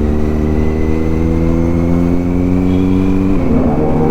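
Kawasaki inline-four sport motorcycle engine running under load while riding, its note climbing slowly and steadily, with a short break and change in the note a little after three seconds in.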